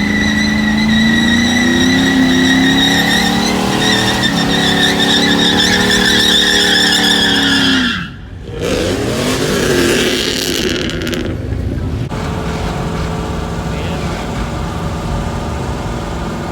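Truck engine revved hard and held high during a burnout, with a high tire squeal over it. The engine cuts off abruptly about eight seconds in, then revs once more in a swoop before giving way to a steadier rushing noise.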